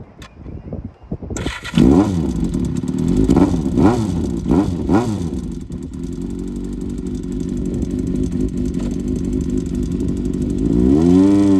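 Honda CBX550F inline-four engine blipped up and down four times, then running at a steady speed, with the pitch rising near the end as it accelerates.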